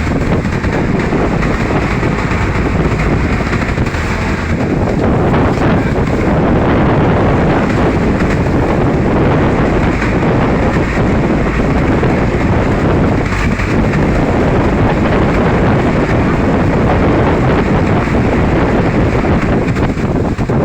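Strong wind buffeting the microphone aboard a banka outrigger boat in high winds: a loud, steady rumbling rush that covers the boat and water noise beneath it.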